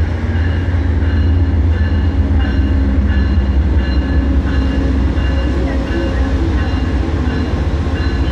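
Amtrak passenger train's diesel locomotives running with a steady low rumble as the train pulls into the station.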